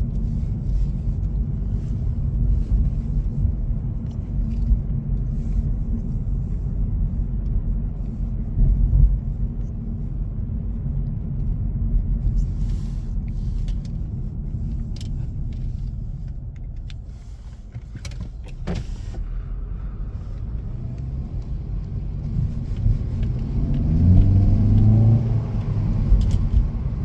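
Cabin rumble of a 2018 Hyundai Elantra 2.0's four-cylinder engine and tyres while driving on a snowy street, with a few sharp clicks about halfway through. Near the end the engine note rises as the car accelerates.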